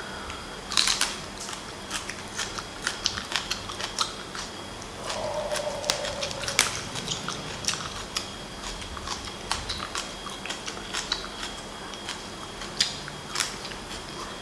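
Close-up crunching and chewing of a raw Chinese green onion stalk: irregular crisp snaps and crunches. A short voiced hum from the eater about five seconds in.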